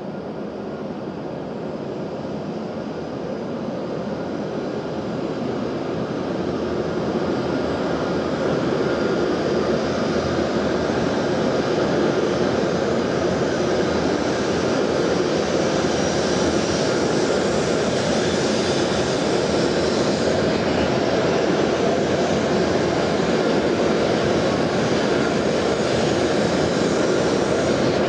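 E7 series Shinkansen train pulling out of the station and gathering speed past the camera: a broad rush of running noise that grows louder over the first ten seconds or so, then holds steady as the long train of cars goes by.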